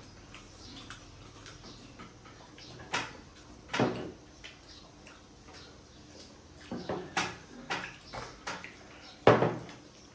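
Dishes and cutlery clinking and knocking, with about half a dozen sharp clatters over a quiet room; the loudest comes near the end.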